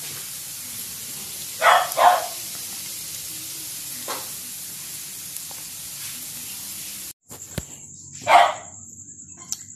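Chicken fat and skin deep-frying into chicharon in their own rendered oil, a steady sizzle. A dog barks twice about two seconds in. After the sizzle cuts off suddenly near seven seconds, it barks once more.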